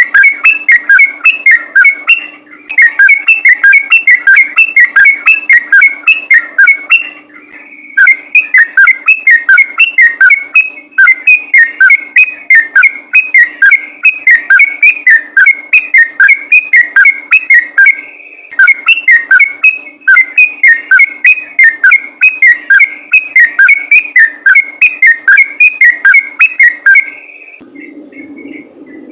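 Sooty-headed bulbul (trucukan) singing a loud, rapid, non-stop run of whistled notes in the 'ropel' style, broken by short pauses and a longer break near the end.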